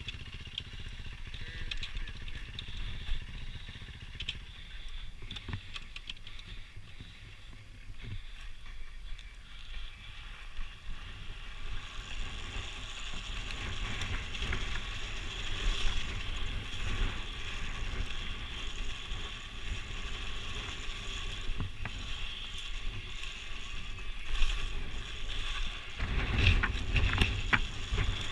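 Dirt bike on a trail: its engine runs muffled under a steady mechanical rattle and clatter from the bike, with scattered knocks that are louder near the end.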